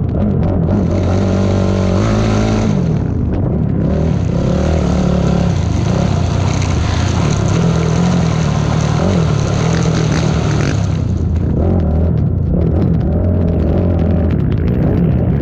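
ATV engine revving up and down, its pitch rising and falling again and again as the throttle and gears change. A hiss runs over it from about a second in until about eleven seconds in.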